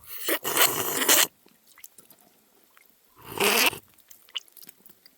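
A person slurping water twice by mouth, a long noisy slurp at the start and a shorter one about three seconds in.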